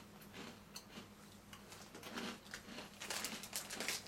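Faint, irregular crunching of a crunchy cheese-corn snack (Hawkins Cheesies) being chewed, with crinkling of the snack bag near the end.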